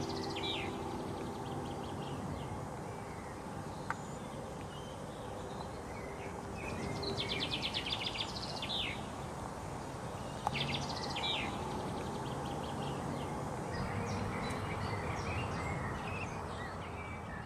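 Steady outdoor background hiss with bird calls: groups of rapid chirping trills and quick sliding high notes, clearest around seven to nine seconds in and again about eleven seconds in.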